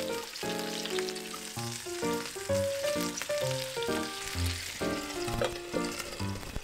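Bone-in chicken legs sizzling in oil in a frying pan as they are turned with a spatula, under background music: a melody of short, stepping notes.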